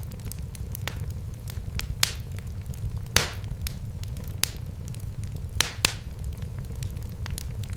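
Wood fire in a fireplace crackling: irregular sharp pops, a few of them louder, over a steady low rumble.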